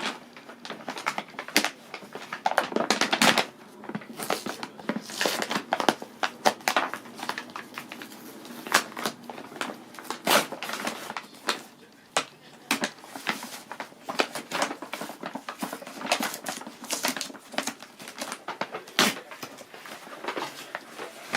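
Stationery items and their plastic packaging being handled: irregular rustling and crinkling with many sharp clicks and taps.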